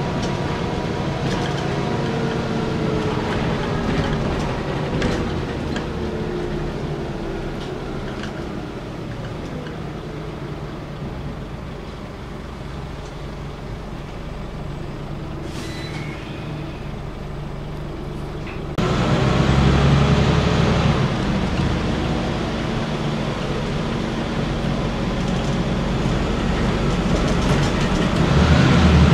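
Scania N94UB single-decker bus heard from inside while in service: diesel engine running with road noise. Engine tones slide down in pitch early on and the sound eases off, then it jumps abruptly louder about two-thirds of the way through.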